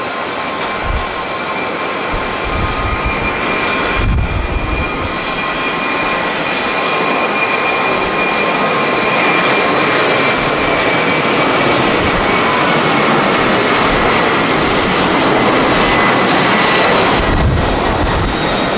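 Jet airliner engines running close by, a broad rush that grows steadily louder with several high steady whining tones on top. Strong wind buffets the microphone in low thumps a few times.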